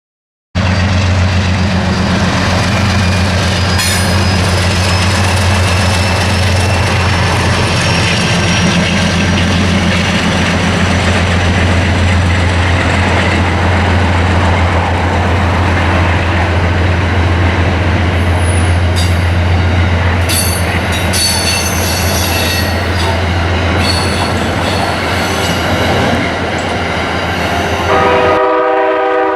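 Amtrak passenger train moving through a station: a steady low locomotive drone with rolling-car noise, high wheel squeals for several seconds in the middle, and a multi-note train horn sounding near the end.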